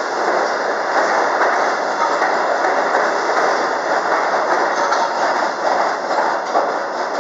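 MBTA Blue Line subway train pulling slowly out of the station, with steady wheel-on-rail running noise that eases slightly near the end.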